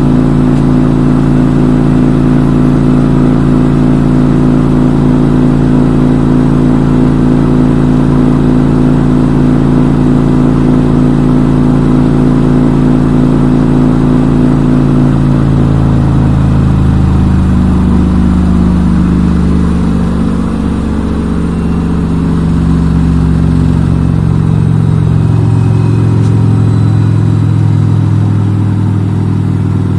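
Front-load washing machine running its spin cycle: a steady hum made of several tones from the motor and spinning drum, which shifts lower about halfway through as the drum's speed changes.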